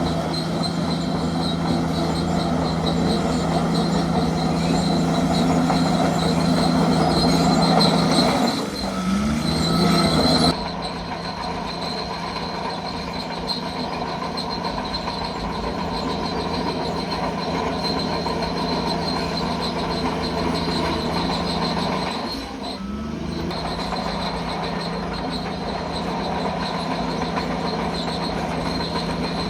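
Bulldozer's diesel engine running steadily under load, with a thin high whine over it. Twice the engine pitch sags and climbs back up, once about nine seconds in and again near 23 seconds, as the load changes.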